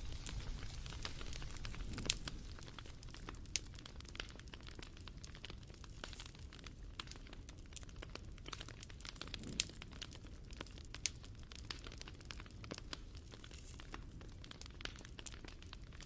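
Wood fire crackling: a steady stream of small irregular snaps and pops, with a few louder sharp pops scattered through, over a low steady rumble.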